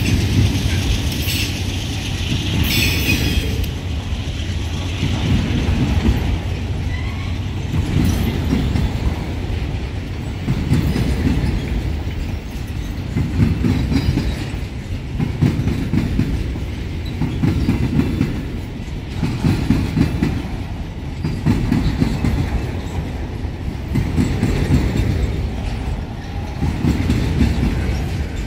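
Freight wagons of an empty pulp train rolling past at high speed: a steady low rumble and clickety-clack of wheels on rail that swells and fades about every two seconds. There are two brief sharp sounds about one and three seconds in.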